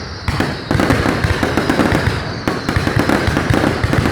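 Fireworks display going off: many shells bursting in quick succession, a dense crackling and popping over deep thuds.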